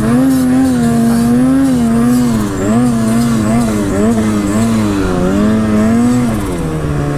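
Snowmobile engine running hard under throttle while climbing, its pitch rising and falling repeatedly, then settling to a lower, steadier note near the end.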